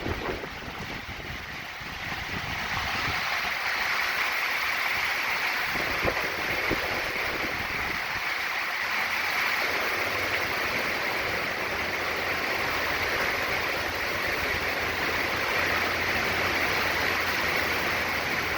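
Heavy wind-driven hurricane rain pouring down in a steady, dense hiss that swells about two seconds in. A low rumble joins in the second half.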